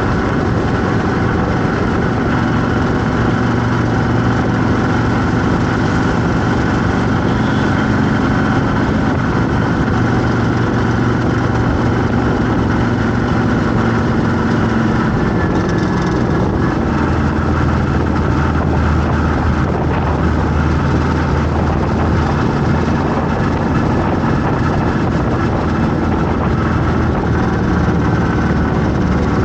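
Vehicle engine running steadily amid road traffic; its low tone drops in pitch a little past halfway.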